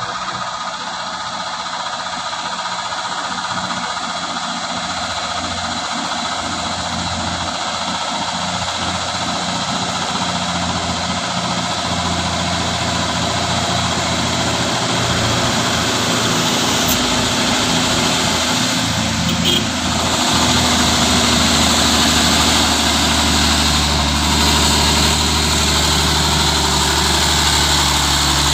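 Truck engine running steadily under load, its level building gradually and stepping up about twenty seconds in.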